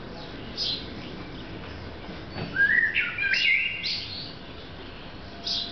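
A songbird singing in the tree: a short high chirp about half a second in, then the loudest part in the middle, a run of clear notes stepping upward in pitch, with a few more high chirps near the end.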